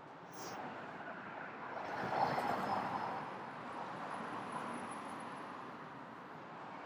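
A vehicle passing by on the street: a smooth rush of tyre and engine noise that swells to its loudest about two seconds in, then fades away.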